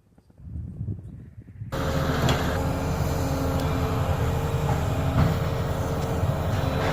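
Low sounds at first, then about two seconds in a steady engine drone starts abruptly and runs on at an even level, with a low hum over dense rumbling noise.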